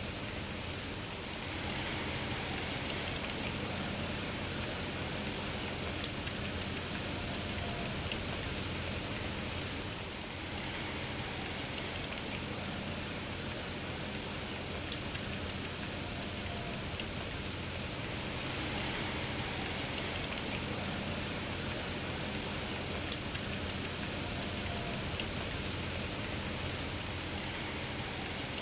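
Steady rain falling as an even hiss, with three sharp, loud drop ticks about nine seconds apart.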